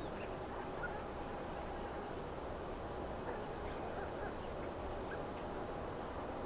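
Outdoor ambience between aircraft movements: a steady low background rumble with faint, scattered short bird chirps.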